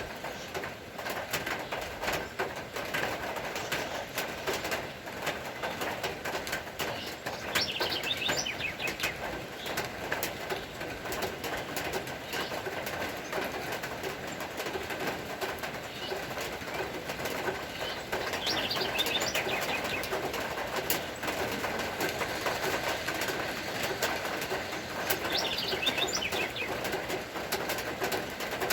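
Rain falling steadily, a dense patter of drops, with a faint steady tone underneath. Birds call through it, with a short high chattering call three times: about a third of the way in, about two-thirds in, and near the end.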